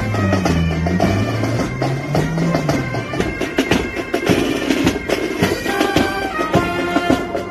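Military pipe band playing: bagpipes carry a steady melody over regular drum strokes.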